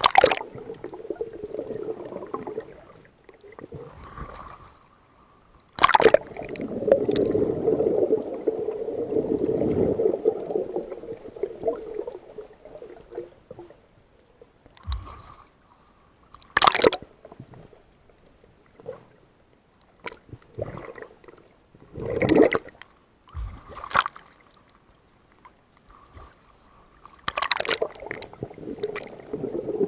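Water sloshing and gurgling close to the microphone in uneven surges, with about ten sharp knocks spread through.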